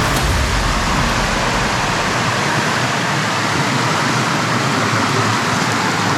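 Rushing water of a rainforest creek or cascade: a steady, loud hiss, with a low rumble that fades out in the first two seconds.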